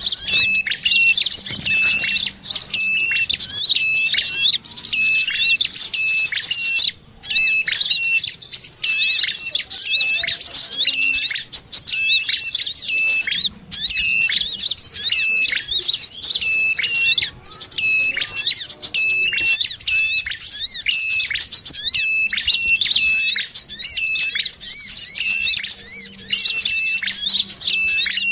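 Looped bird-lure recording: dense, rapid, high chattering chirps layered with a short call repeated about twice a second. It is the chattering of sogon combined with ashy tailorbird and brown-throated sunbird calls. The sound cuts out briefly twice, where the loop is joined.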